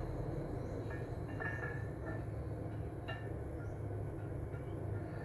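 Lathe turning a steel truck wheel rim, running with a steady low rumble, with a few light metallic clinks and rings about one and three seconds in.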